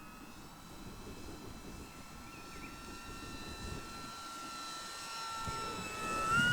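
Electric motor and propeller of a Durafly Slow Poke RC airplane whining in flight, a steady tone that grows louder toward the end and rises slightly in pitch near the end.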